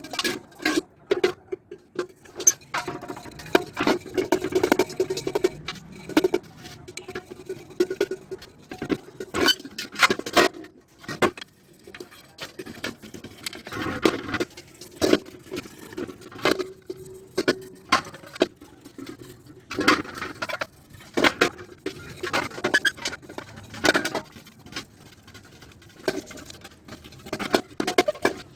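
Hand work on a Honda CD 70 metal engine side cover: irregular scraping and rubbing broken by sharp clicks and knocks of tools against the metal.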